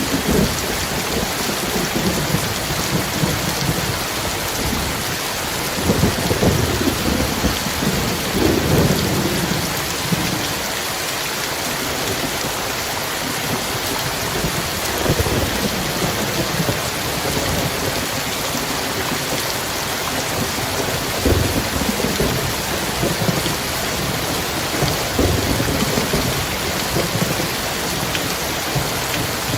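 Heavy rain falling steadily in a thunderstorm, with low rolls of thunder swelling and fading several times.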